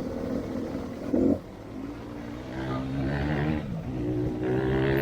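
Off-road motorcycle engine revving up twice: the pitch climbs, drops back, then climbs again.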